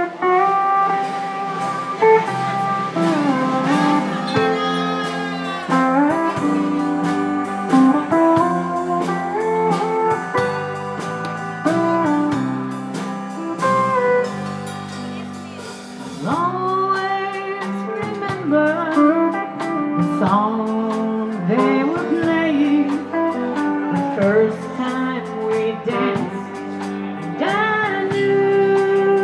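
Country band playing an instrumental passage, a steel guitar carrying the melody with sliding notes over guitar and bass.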